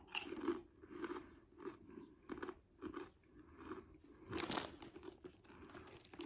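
Mouth chewing Doritos 3D Crunch puffed corn chips, a steady run of crisp crunches about twice a second, the loudest about four and a half seconds in.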